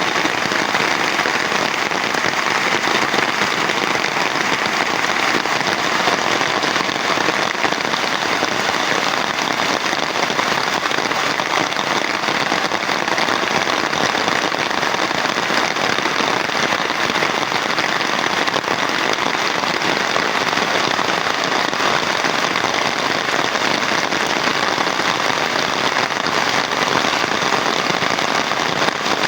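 Heavy rain falling steadily: a dense, even patter with no let-up.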